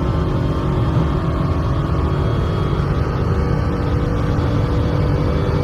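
Dodge Hellcat's supercharged 6.2-litre Hemi V8 pulling hard at full throttle near top speed, about 175 to 185 mph, heard from inside the cabin. The sound is a steady loud drone mixed with heavy wind and road noise.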